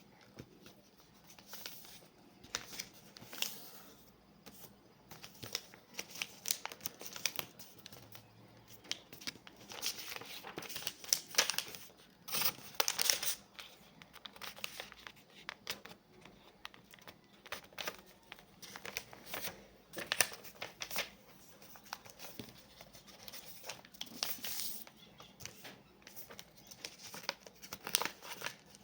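A sheet of paper being folded and creased by hand into a paper airplane: irregular crinkling, rustling and sharp creasing strokes, with louder flurries every few seconds.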